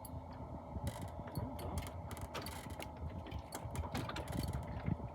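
Fishing reel being cranked to bring a hooked fish up to the boat, its gears giving off irregular rapid clicking over a steady low hum.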